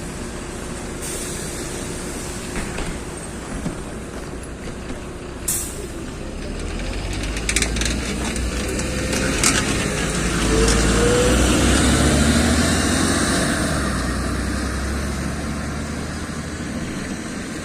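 LiAZ 6213.22 articulated city bus heard from inside while running: the engine and running rumble swell from about six seconds in to a peak near eleven or twelve seconds, then ease off. A few sharp clicks come along the way.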